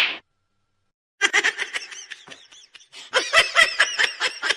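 A person laughing in quick, high-pitched bursts, starting about a second in.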